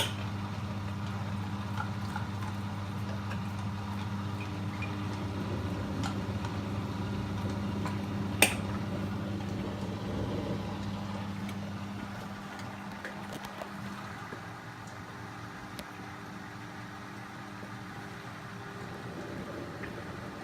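Beko washing machine running with a steady low hum, which fades out about two-thirds of the way through. There is one sharp click about 8 seconds in. The machine's drum bearings are worn.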